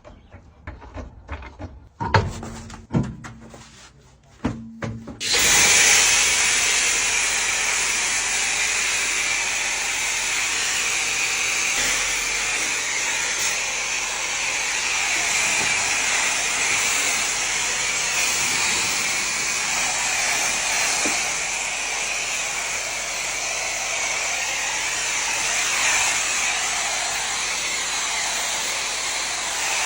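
A few clicks and knocks, then about five seconds in a motorised tool or cleaning machine starts and runs steadily with a strong hiss.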